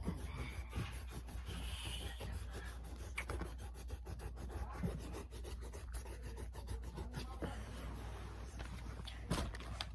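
Brown colored pencil rubbing and scratching across paper in quick, repeated strokes as the ground of a drawing is outlined and coloured in.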